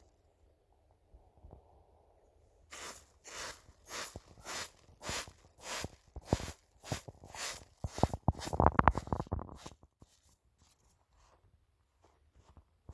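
Crunching footsteps at a steady walking pace, about one every half second or so. About eight seconds in, they give way to a louder, denser stretch of crunching and scuffing for a second or two, then stop.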